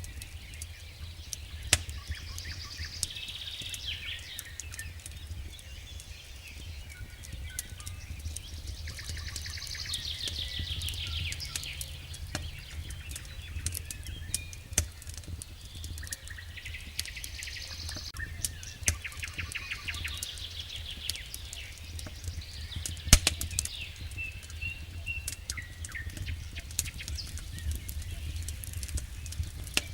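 Wood fire in a fireplace crackling, with scattered sharp pops, the loudest about two-thirds of the way through, over a steady low rumble. Several stretches of high, fast fluttering hiss come and go.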